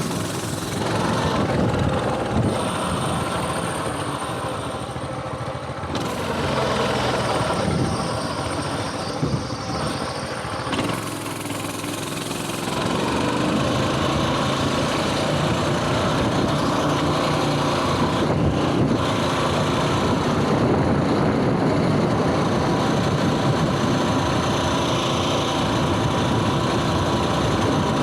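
Coleman mini bike's small single-cylinder engine running while riding, its pitch shifting with the throttle, easing off briefly before holding louder and steadier through the second half.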